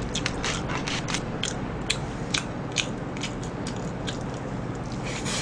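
Close-up biting and chewing of a breaded, deep-fried cutlet: a string of short, crisp crunches at an uneven pace, a few a second.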